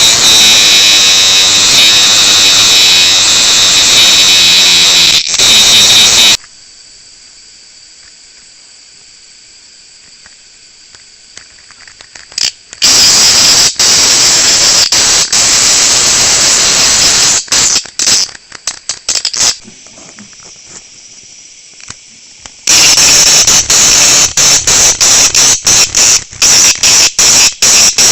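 Cicada caught by a praying mantis, giving its loud, harsh buzzing distress call. The buzz is steady for about six seconds, stops, then returns in stretches that break into rapid stuttering pulses.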